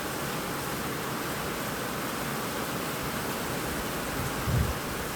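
Steady hiss of falling rain, with a brief low thud a little over four seconds in.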